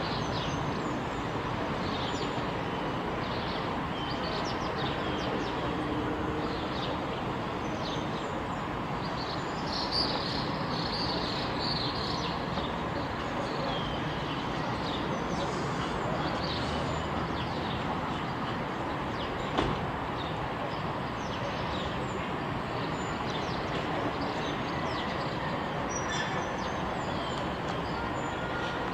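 Many short bird chirps scattered over a steady background rumble, with one brief click about two-thirds of the way in.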